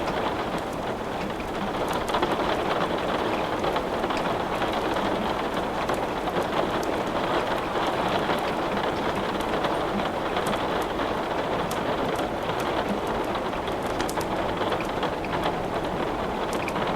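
Steady rain, an even dense hiss, with scattered sharp crackles of wood burning in a fireplace.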